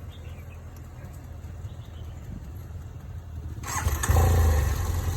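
Motorbike engine running with a low rumble, then a sudden loud surge of engine and rushing noise about three and a half seconds in.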